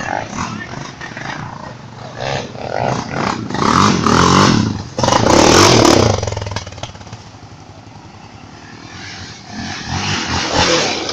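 Motocross motorcycles passing close by with engines revving, loudest about four to six seconds in; another bike comes through near the end.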